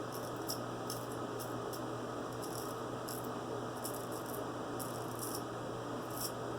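Double-edge safety razor scraping across stubble in short, quick strokes, about fifteen of them at an uneven pace: a touch-up pass after a straight-razor shave.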